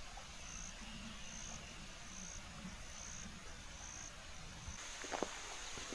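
Faint insect calling in short, high-pitched chirps repeated a little under once a second. There are a few sharp clicks near the end.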